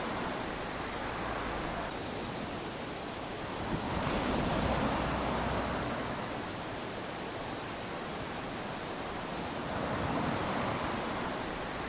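Small waves lapping onto a sandy beach: a steady wash of surf that swells as a wave comes in about four seconds in and again near the end.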